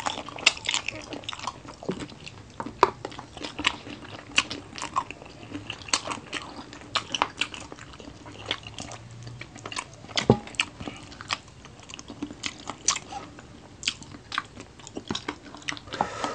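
Two people biting and chewing crunchy fried adobo chicken feet: irregular crunches and clicks, several a second.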